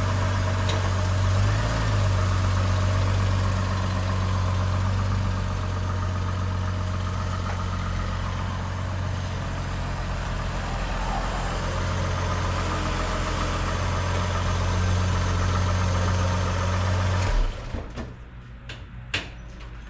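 Chevy Trailblazer's 4.2-litre inline-six engine idling steadily, then shut off about 17 seconds in. A few sharp clicks and knocks follow.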